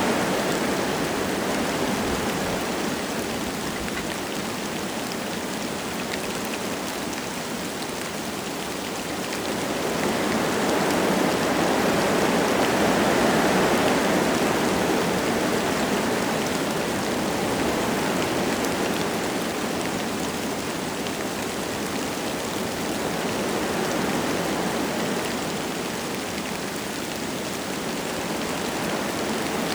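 Wind gusting through forest trees with light rain falling, a rushing that swells and eases, loudest about a third of the way through.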